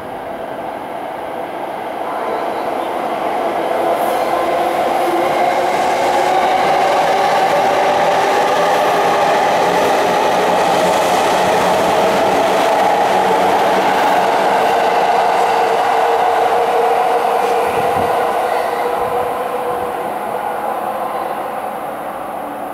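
JR East 209-series Mue-Train electric test train passing through a station at speed without stopping. The steady sound of wheels on rail builds as it comes in, is loudest for about ten seconds while the cars go by, and then fades away.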